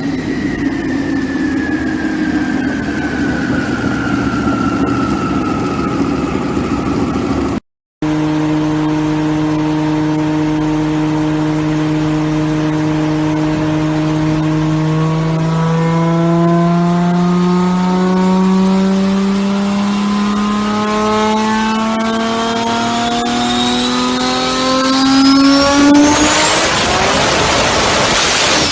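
Car engine running under load, its note slowly falling, then a brief cut. A second engine note holds steady, then climbs as the engine accelerates hard, rising slowly at first and then very steeply near the end as it revs high.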